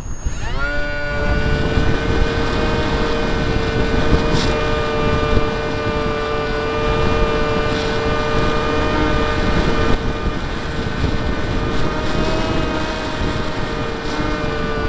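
Brushless electric motor and 7x6 propeller of a Skyartec Skyfun (Funjet) RC jet spinning up to speed about half a second in, then running at a steady high-pitched whine, heard from the onboard camera with wind rushing over its microphone.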